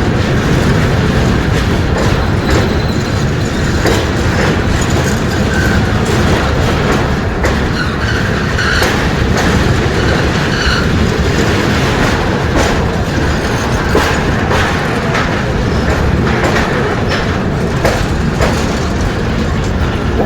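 Amrit Bharat Express coach running along the track, heard from on board: a loud, steady rumble of wheels on rail with irregular sharp clacks over the rail joints.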